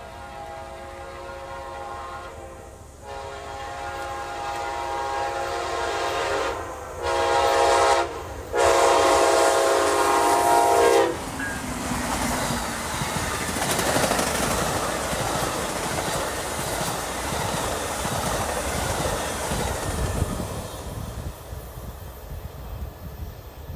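Locomotive air horn sounding the grade-crossing signal, long, long, short, long, with the last blast ending about 11 seconds in. The train then rushes past with a loud rumble and wheel clatter that fades near the end.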